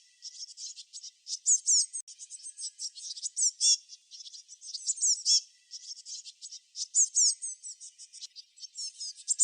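Small songbirds chirping: a dense, continuous run of quick, high-pitched chirps, many of them sweeping downward in pitch.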